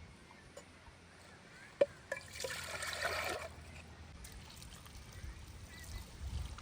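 A sharp clink, then about a second of liquid pouring or trickling.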